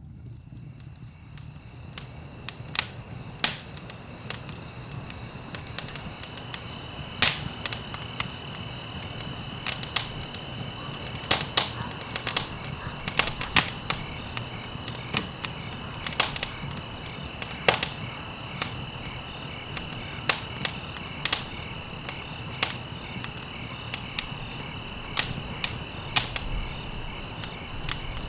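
Wood fire crackling, with irregular sharp pops and snaps over a low steady rush of burning logs. A steady, pulsing high-pitched trill runs behind it.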